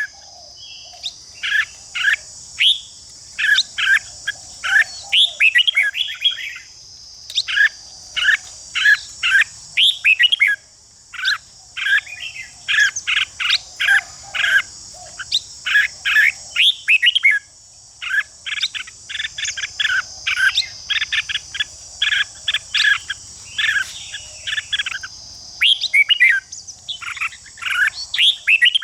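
Red-whiskered bulbuls giving rapid runs of short, sharp chattering notes and song phrases in bursts with brief pauses: the scolding 'ché' chatter of birds singing against a rival. A steady high buzz runs underneath.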